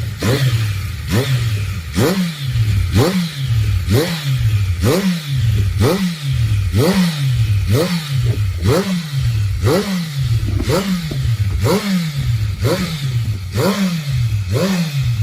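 Kawasaki Ninja H2 SX's supercharged inline-four, fitted with a TRICKSTAR slip-on muffler, blipped repeatedly at standstill: about one quick rev a second, each rising sharply in pitch and falling back toward idle.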